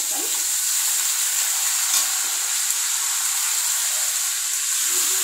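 Pumpkin pieces frying in hot oil in a kadhai, a steady sizzle that starts as they are tipped in, with a spoon stirring them.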